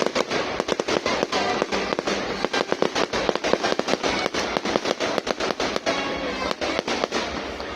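Fireworks display: a dense, irregular run of bangs and crackles, many each second, without a break.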